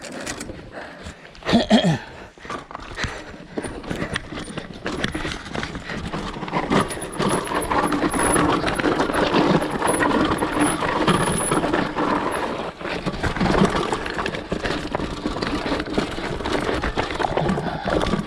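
Continuous clattering and rattling of riding down a rough, rocky trail, dense quick knocks over steady rushing noise, with a louder jolt about two seconds in.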